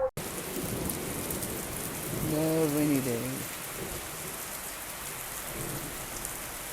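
Steady rain falling. About two seconds in, a person's voice sounds briefly, falling in pitch.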